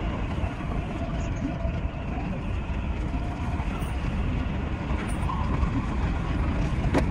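Steady rumble of an Odakyu 5000-series electric train running on the rails, heard inside the driver's cab, with a sharp click near the end.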